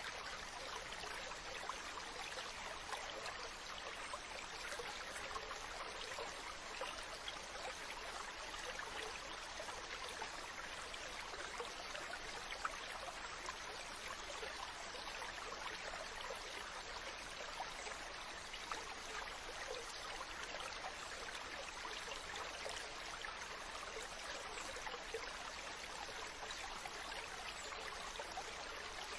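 Steady wash of moving water with a fine crackle of small splashes, even in level with no rise and fall of waves.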